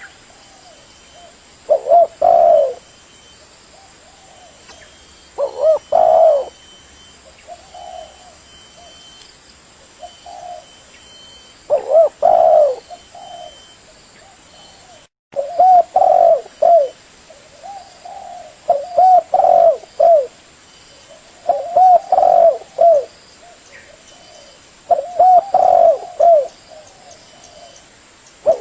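Spotted dove (tekukur) cooing: repeated low, rounded coo phrases a few seconds apart, coming closer together in the second half. The sound cuts out for a split second about halfway.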